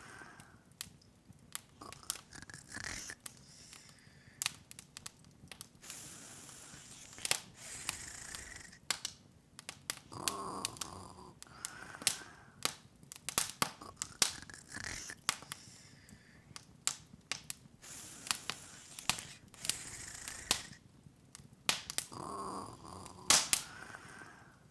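Open wood fire crackling, with irregular sharp pops and snaps, several close together at times.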